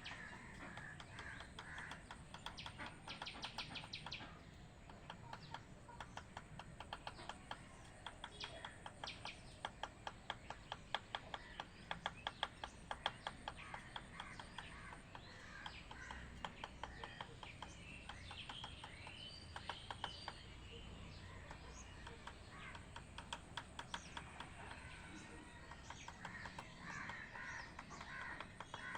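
Birds calling and chirping, with long runs of rapid, evenly spaced sharp clicks or taps, loudest a little past the middle.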